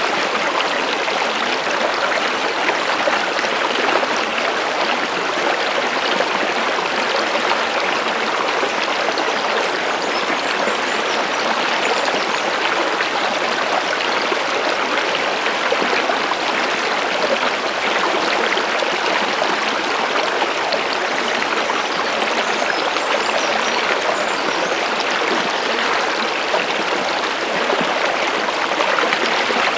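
Stream water running steadily, a continuous even rush of flowing water.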